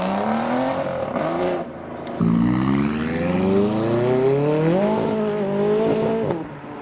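Car engine accelerating hard as it pulls away, its pitch climbing, breaking off about two seconds in, then climbing again loudly through the next gear before easing off near the end.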